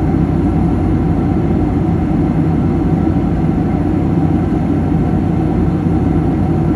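Steady low engine and airflow noise inside an airliner cabin, with no changes or sudden sounds.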